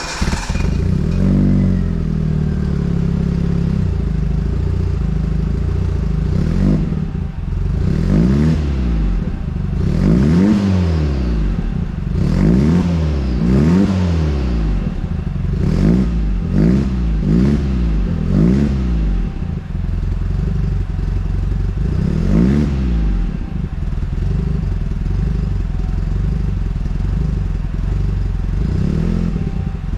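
Turbocharged Maruti Suzuki Zen engine running and being revved in repeated throttle blips. The pitch rises and falls about a dozen times over a steady idle. The exhaust note is a sweet one rather than loud or crackling.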